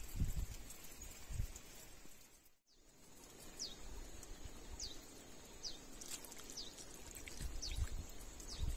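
Outdoor ambience with a bird's short, falling chirps repeating about once a second after a brief drop-out a little over two seconds in, and a few low knocks from handling.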